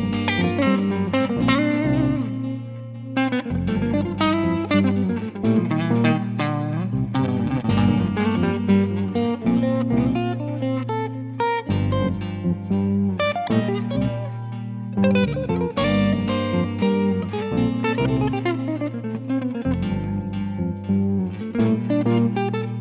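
Electric guitar improvising fast single-note lines over a looped G minor backing track with sustained low chords.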